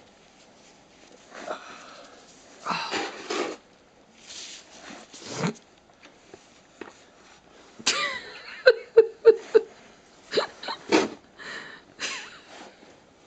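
Snow shovel scraping and tossing light powder snow in repeated separate strokes. A quick run of four or five short vocal sounds comes a little past the middle.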